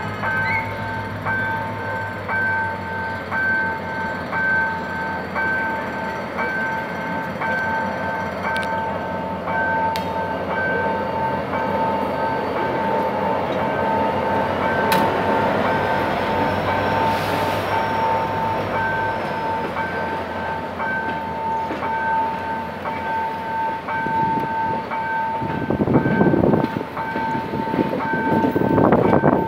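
A level-crossing warning signal rings in a steady two-tone pulse as a GM GT22CW-2 diesel-electric locomotive runs past hauling passenger coaches. The diesel's low rumble sits under the alarm early on, and the coaches' wheels clatter over the crossing louder near the end.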